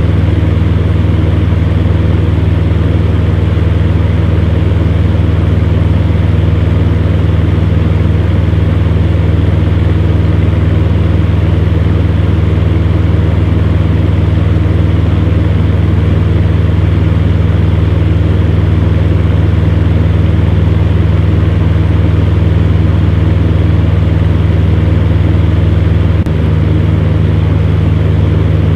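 Electric fan heater running steadily: a low motor hum under an even whoosh of blown air. The level dips slightly near the end.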